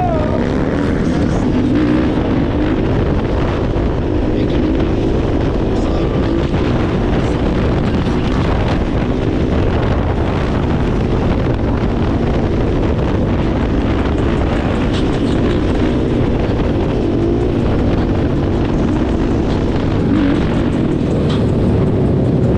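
Dirt bike engines running on the move, their pitch wavering up and down, with wind rushing over the microphone.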